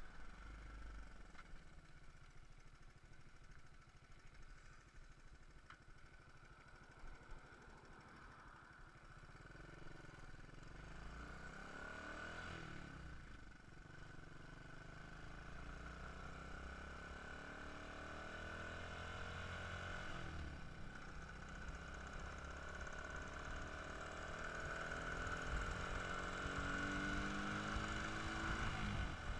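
Dirt bike engine running, its pitch rising and falling with the revs, growing louder toward the end.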